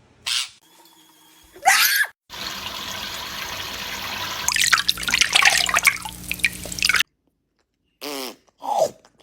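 Running water with splashing and dripping for several seconds, between short high gliding calls near the start and near the end.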